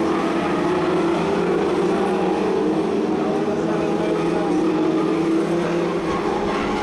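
Several BriSCA F2 stock car engines running together around the track, a steady blend of engine notes wavering in pitch.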